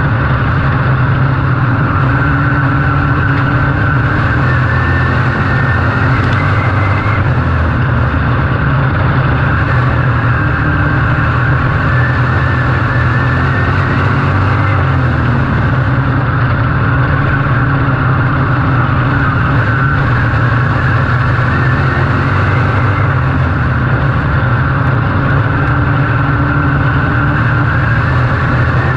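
Race vehicle engine running hard and continuously, its pitch wavering slightly up and down with no breaks.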